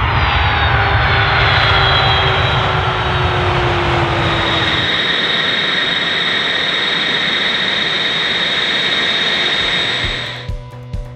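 Jet airliner's Rolls-Royce RB211-535E4B turbofans running loud, with a whine that falls in pitch over the first few seconds and then holds steady; the sound drops away sharply near the end.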